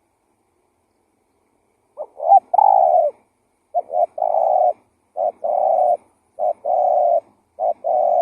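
Spotted dove (tekukur) cooing, the vigorous song used as a lure call. Starting about two seconds in, it gives five coos, each a short note or two followed by a longer held note, about one every 1.2 seconds.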